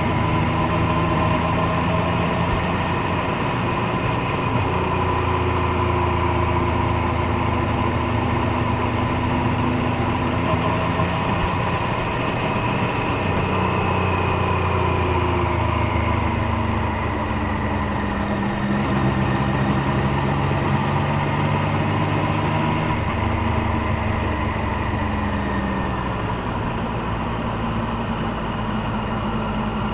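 Triumph Street Triple 765's three-cylinder engine and exhaust under way, the note falling and rising with the throttle, over steady road and wind noise.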